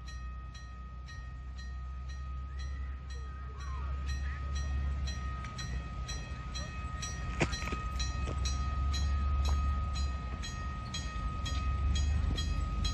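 Train running: a steady low rumble under an even, quick ticking about three times a second, growing louder, with one sharp knock about halfway through.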